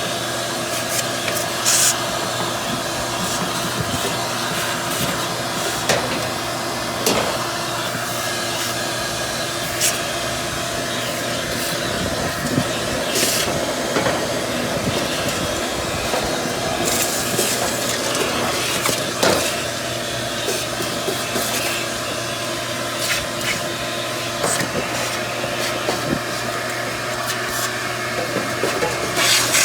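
Vacuum cleaner running steadily: a hiss of rushing air over a low motor hum, with scattered clicks and knocks.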